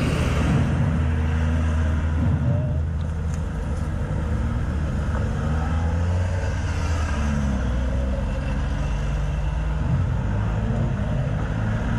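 Motorcycle engine idling steadily, a low, even rumble.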